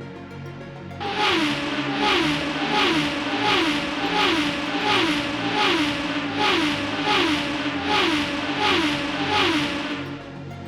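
Racing-car engine sound effect revving in a fast, even loop, each rev dropping in pitch and settling, about one and a half a second. It starts about a second in and stops shortly before the end.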